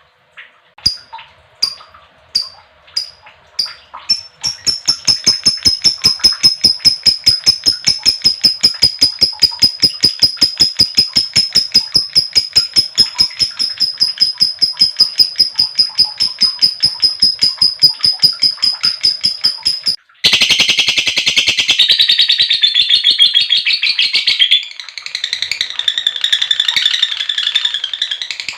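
Female lovebird's long chattering song ('ngekek panjang'): a few separate chirps, then a fast, unbroken run of about five sharp chirps a second on a high steady note, which stops suddenly about twenty seconds in. A denser, hissing, high-pitched chatter follows to the end.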